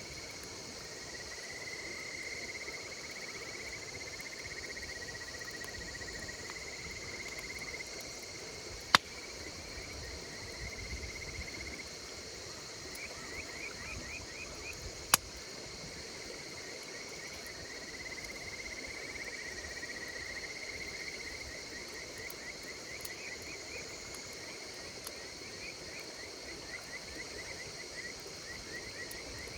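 Insects chirping in a steady chorus of trills over the low crackle of a wood campfire. Two sharp pops from the fire, about nine and fifteen seconds in, are the loudest sounds.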